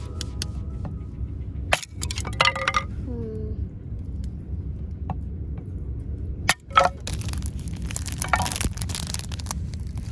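Sharp wooden knocks, cracks and snaps from firewood being split and handled, over a steady low rumble. The loudest knocks come a little under two seconds in and again around two-thirds of the way through.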